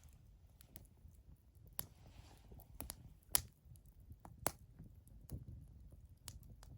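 Wood fire burning, crackling with irregular sharp pops over a low steady rumble; the two loudest pops come a little past the middle.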